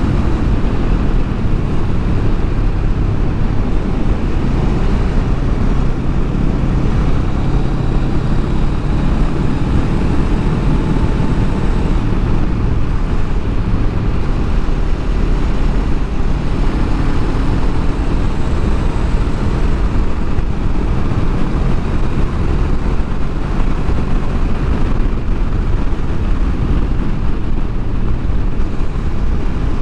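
Honda Rebel 500's parallel-twin engine running steadily through its stock muffler while riding at road speed, under a constant rush of wind on the microphone.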